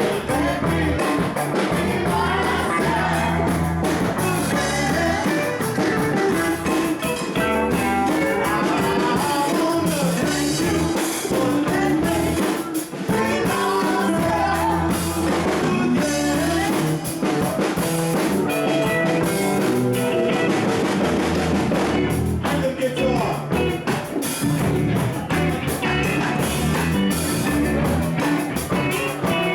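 Live rock band playing, with singing over electric guitar, bass and drum kit.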